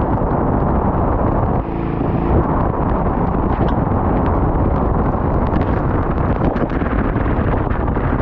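A four-wheel-drive vehicle's engine running with a loud, steady rumble under heavy wind buffeting on the microphone, with a short pitched hum about two seconds in.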